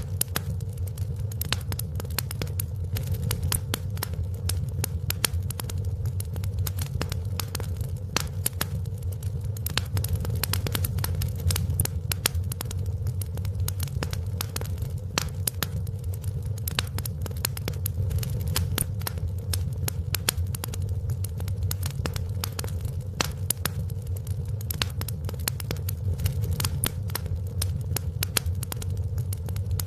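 Wood fire in a fireplace crackling, with many small sharp pops and snaps over a steady low rumble.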